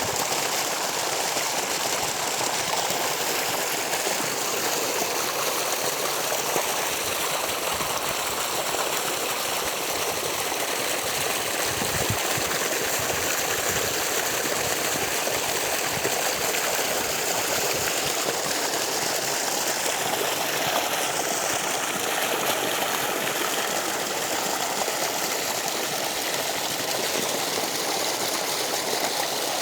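Irrigation water from a lift irrigation scheme rushing and splashing steadily, without a break, as it flows into a paddy field.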